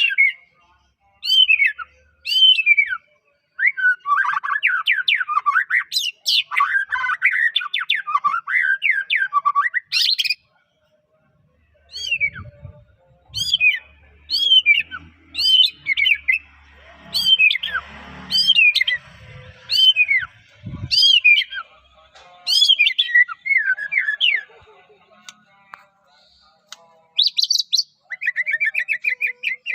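White-rumped shama (murai batu) singing: loud, sharply falling whistled notes and fast warbled runs, broken by a short pause. Faint low thumps sound beneath the song in the middle, with a stronger thud about two-thirds of the way through.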